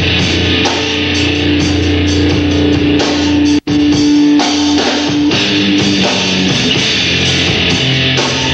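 Rock band playing live: electric guitar strumming over a drum kit. The sound cuts out completely for a split second about three and a half seconds in, then the music carries on.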